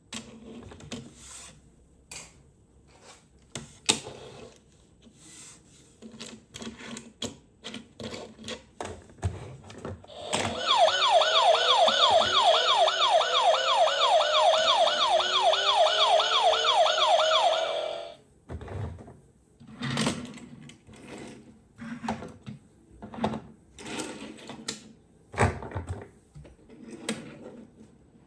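Scattered plastic clicks and knocks, and about ten seconds in a toy police car's electronic siren sounds for about seven seconds, a fast repeating rising wail of about four sweeps a second, then cuts off.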